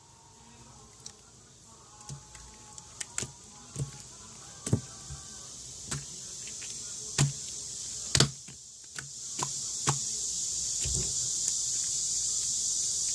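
Slime being squeezed and worked by hand, with sharp wet pops and clicks roughly once a second and a high hiss that grows steadily louder through the second half.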